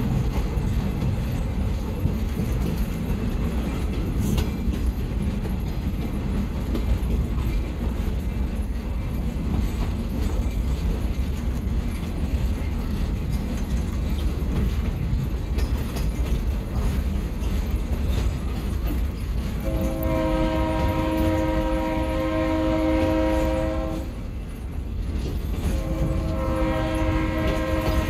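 Train running on the track, heard from an open-air passenger car as a steady low rumble. About twenty seconds in, the locomotive's horn sounds a chord of several steady tones for about four seconds, then sounds again near the end.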